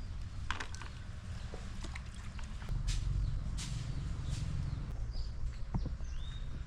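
Outdoor farmyard ambience: a bird gives a short chirp about five seconds in, over a low rumble that swells in the middle and a few light clicks and knocks.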